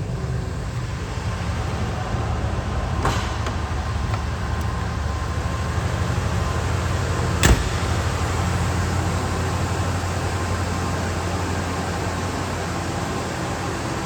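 1977 Lincoln Continental Town Car's V8 idling steadily just after a cold start. A single sharp click sounds about halfway through.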